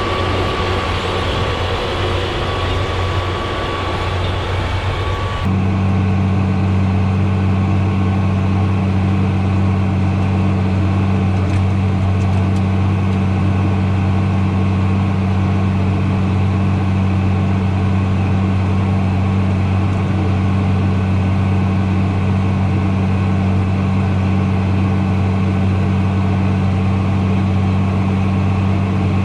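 Tractor engine running steadily with a low, even drone. A different, noisier engine sound cuts off abruptly about five seconds in, giving way to the drone.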